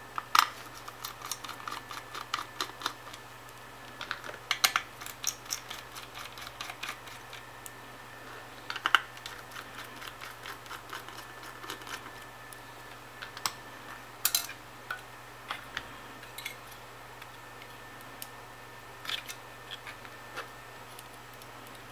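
Irregular small clicks and ticks of a screwdriver backing out the screws on a graphics card's cooler, with a few sharper taps as metal parts are handled, over a faint steady low hum.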